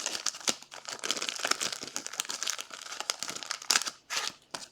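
Trading-card pack wrappers being crinkled and crumpled by hand, a dense crackling that stops just before the end.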